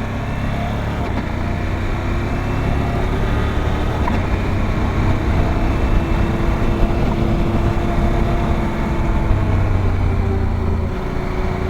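Motorcycle engine running at a steady cruising speed, its note holding nearly level throughout.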